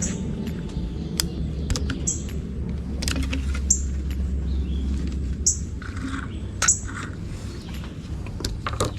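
A bird chirping repeatedly, short high falling chirps every second or two, over a steady low hum, with scattered small clicks and taps.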